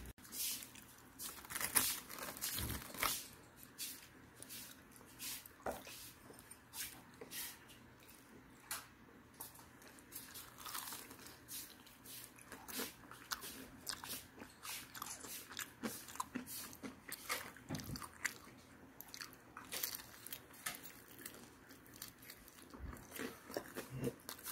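Close-up eating of crispy boneless fried chicken: repeated irregular crisp crunches of the batter with chewing between them, the loudest bites in the first few seconds.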